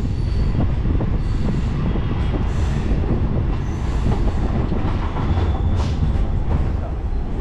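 Suburban electric local train running on the rails, heard from on board: a steady low rumble and rattle of wheels on track, with a few short clicks and a faint high wheel squeal.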